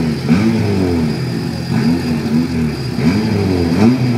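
Honda Civic hatchbacks' four-cylinder engines revved in repeated quick blips at the drag-strip start line, pitch climbing and dropping several times, the blips overlapping as both cars rev before the launch.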